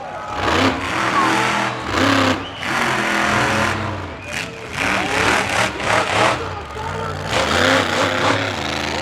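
Monster truck engines running and revving, the pitch rising and falling in repeated surges.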